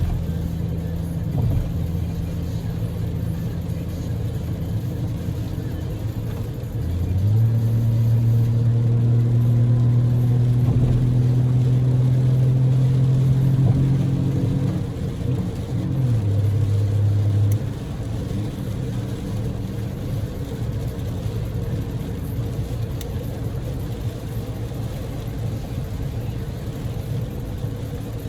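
Inside the cabin of a Daihatsu Move L150S with its EF-VE three-cylinder engine, driving through heavy typhoon rain: a steady hiss of rain and wet tyres under the engine's low drone. The drone jumps up in pitch and loudness about seven seconds in, climbs slightly, drops back near fifteen seconds and fades out about eighteen seconds in, leaving only the rain and road noise.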